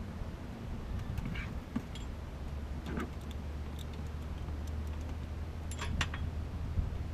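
A few light, sharp metallic clinks, about a second in, near three seconds and a pair close together near six seconds, over a steady low hum.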